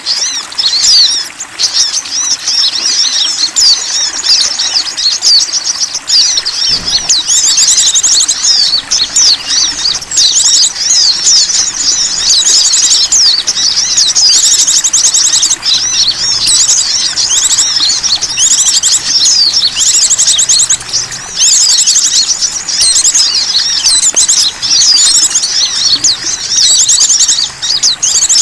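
Small songbirds chirping and twittering densely and almost without pause, with fast high trills: a bird-lure (pikat) call played to draw in wild small birds.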